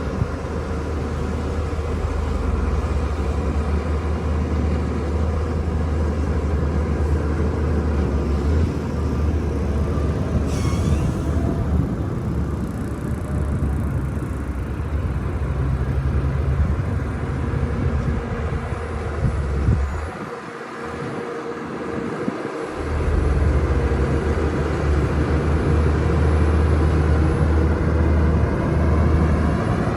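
Shantui DH17-C2 bulldozer's diesel engine running under load while it pushes dirt, a steady low drone. A brief high squeal comes about a third of the way in, and the drone drops away for about three seconds past the middle before coming back.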